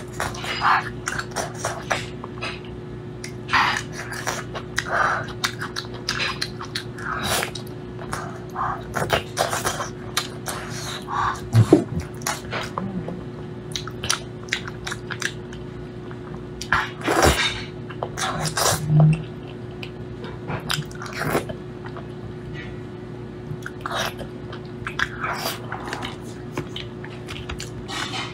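Close-miked wet chewing, smacking and slurping of soft, sticky braised meat, in irregular short bursts. A faint steady hum runs underneath.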